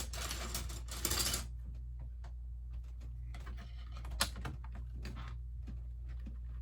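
Loose Lego bricks being rummaged through and clicked against each other: a rustling shuffle of plastic pieces at the start and again midway, with scattered sharp plastic clicks, one louder just after four seconds. A steady low hum runs underneath.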